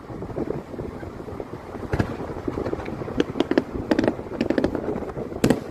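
Fireworks going off: a single crack, then a rapid run of sharp bangs and crackles, heard from inside a car over a steady low rumble of the car and wind.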